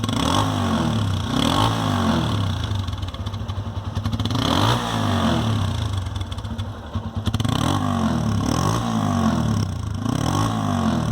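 TVS Apache RTR single-cylinder motorcycle engine running and being revved again and again, its pitch rising and falling with each blip of the throttle. The exhaust sounds even, without the putt-putt it had while an insect's mud nest was blocking the silencer, now cleared out.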